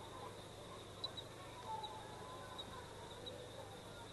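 Faint outdoor ambience with birds chirping: short, high chirps repeating irregularly about every half second over a steady low hum.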